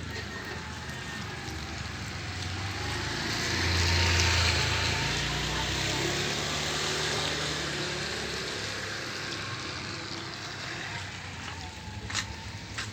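Steady hiss of light drizzle, with a motor vehicle passing on the wet road: its engine and tyre noise swell to a peak about four seconds in, then slowly fade. There is a sharp click near the end.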